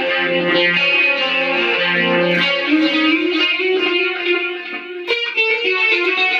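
Electric guitar played through the ART DST 8080 rack amp's clean tube-preamp setting: ringing chords that change every second or so, with a new chord strummed sharply about five seconds in.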